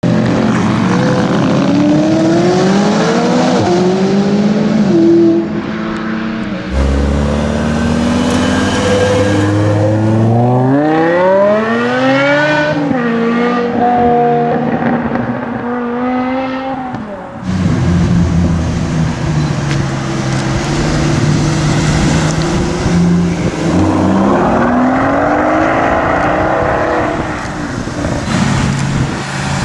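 Three supercar pass-bys in a row. First, a McLaren's twin-turbo V8 revs up through several gears. Then, after a cut, a BMW M5 V10 accelerates hard with a long rising wail, and after a second cut a Mercedes SL65 AMG Black Series twin-turbo V12 runs steadily, then climbs in pitch as it pulls away.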